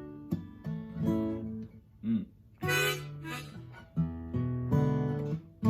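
Acoustic guitar strummed in separate chords about a second apart, with a couple of short harmonica notes in the middle, as the player tries whether the harmonica fits the key.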